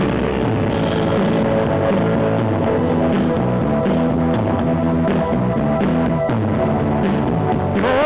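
A rock band playing an instrumental passage between vocal lines: guitar and drum kit over a bass line that steps between notes.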